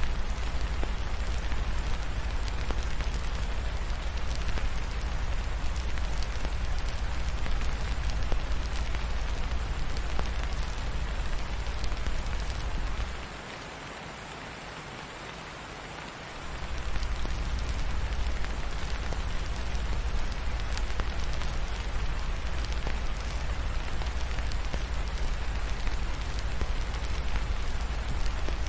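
Steady heavy rain falling, with a deep low rumble under it that drops away for about three seconds near the middle, leaving only the rain hiss, before it returns. Faint crackles of a log fire are scattered through it.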